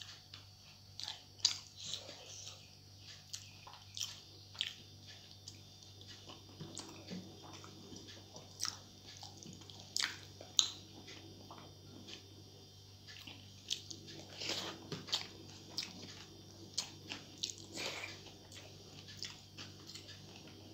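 Close-up chewing and lip-smacking of a person eating rice and egg curry by hand, with many short, scattered wet mouth clicks. Fingers mixing soft rice on the plate add a few squishes, over a faint steady hum.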